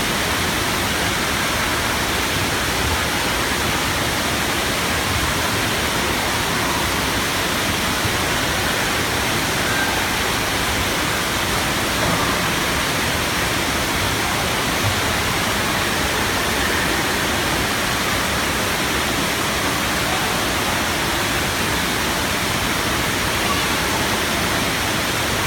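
Steady rushing of falling and splashing water, an even wash of noise with no breaks.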